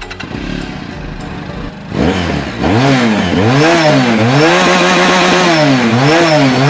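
Domestic H2-style motorcycle's 400cc water-cooled fuel-injected twin-cylinder engine, ticking over for about two seconds and then revved hard, its pitch climbing, holding and dropping back several times.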